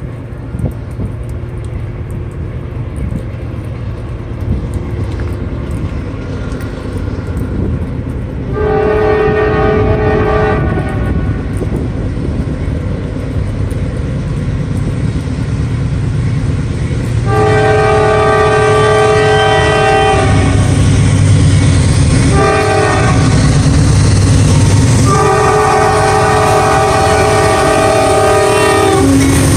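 Approaching CSX freight train's diesel locomotive sounding its multi-tone air horn in the grade-crossing pattern: long, long, short, long. Under it, the locomotive's low rumble grows steadily louder as it nears.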